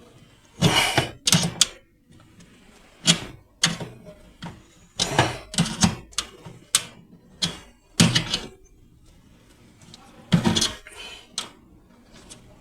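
Irregular sharp clicks and knocks, about a dozen with gaps between them: refrigerator fan motor parts being fitted and fastened back into place.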